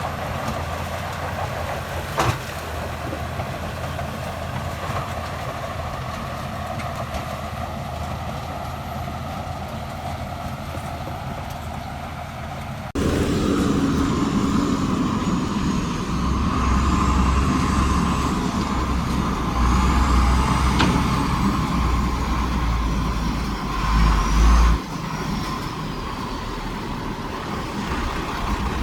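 Heavy diesel construction machinery running steadily. About 13 s in, the sound changes abruptly to a louder, deeper engine rumble with faint high whines rising and falling over it.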